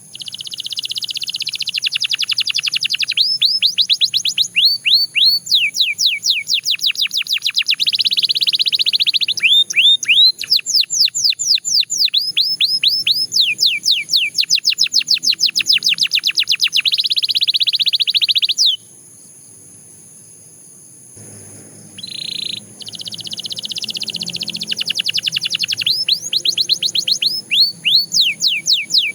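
Belgian canary singing a long song of rapid trills: fast runs of repeated, falling, high-pitched notes. The song breaks off for about two seconds two-thirds of the way through, then starts again.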